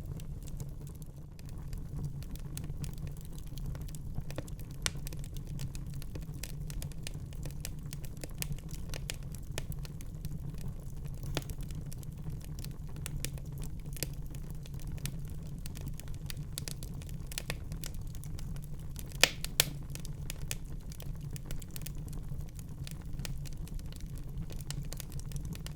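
Wood fire crackling in a fireplace: a steady low rumble of the flames with frequent small snaps, and two louder pops close together about 19 seconds in.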